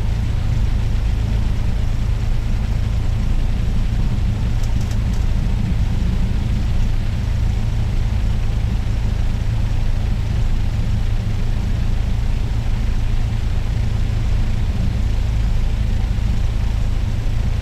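Cessna 172's piston engine and propeller running steadily, a constant low drone.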